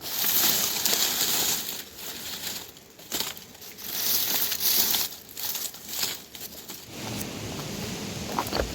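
Rustling, crinkling noise in two long loud bursts, with a few sharp clicks between them.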